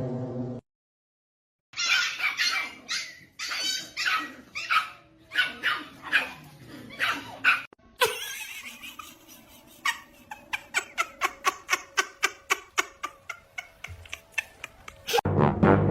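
A dog barking repeatedly, then a faster run of short barks, about four a second, in the second half.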